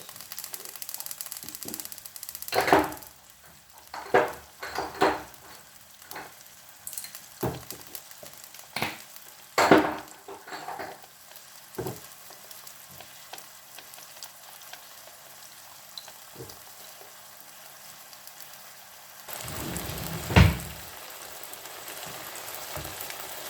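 Food sizzling in hot oil in a pan, with a utensil stirring and knocking against the pan a dozen or so times in the first half. Near the end the sizzling gets louder, with one sharp knock.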